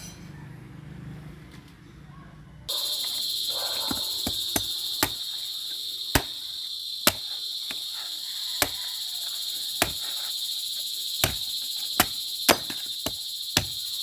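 A steady high-pitched insect chirring, like crickets, starts suddenly about three seconds in. Irregular sharp knocks fall over it, roughly one every second.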